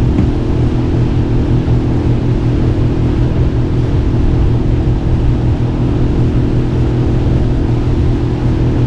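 Small outboard motor on a Gheenoe running at a steady speed, with an even hum and a wash of wind and water noise.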